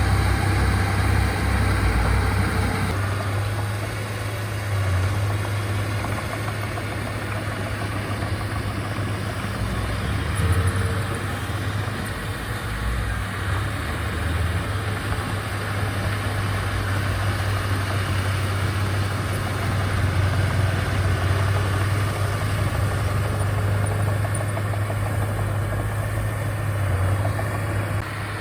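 Diesel engine of heavy earthmoving equipment running steadily with a deep low hum. The higher part of the sound and the overall loudness drop a little about three seconds in.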